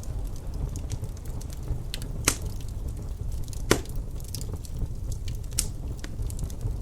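Wood fire crackling in a fireplace: scattered sharp pops and snaps, the two loudest about two and a half and four seconds in, over a steady low rumble.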